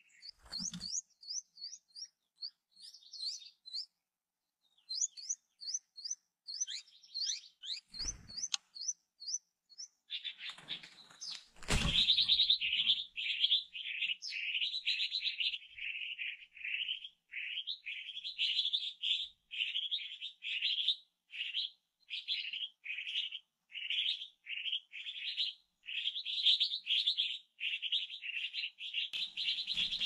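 Nestling birds begging with quick, high, thin chirps, with a short pause, for the first ten seconds. After that comes a louder, lower, nearly unbroken run of rapid bird chirps, as a hawk stands over the chicks on the nest. A sharp knock sounds just before twelve seconds in.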